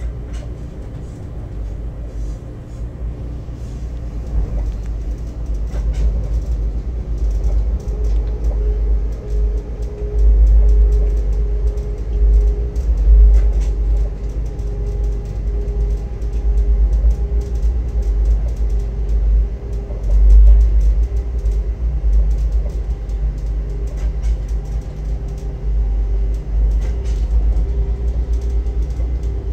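Train running along the track, heard from inside the front cab: a steady low rumble that swells louder a few times, with a humming tone pulsing through it about once a second.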